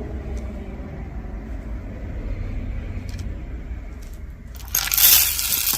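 A low steady rumble, then about four and a half seconds in a loud crinkling of packaging, like a plastic bag being handled or torn open.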